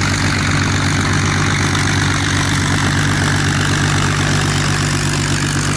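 Piston aircraft engines running steadily at a low, even pitch.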